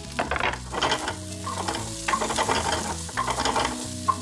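Garlic and ginger sizzling as they sauté in olive oil in a frying pan, while a spatula stirs and scrapes them around the pan in repeated strokes.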